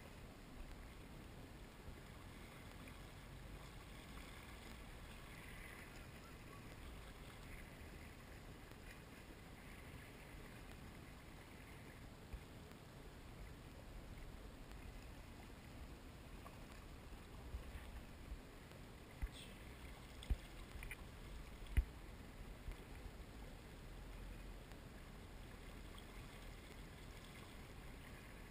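Faint steady low rumble of wind and lapping lake water, with a few short sharp knocks in the second half.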